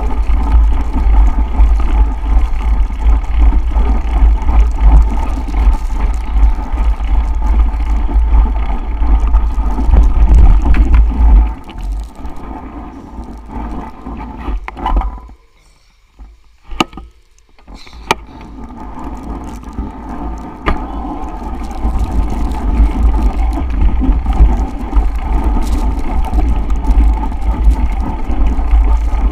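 Wind buffeting the microphone as a steady low rumble with a rushing hiss, on a bicycle ride through a snowstorm. About halfway through it drops away for a few seconds to near quiet with a few faint clicks, then builds back up.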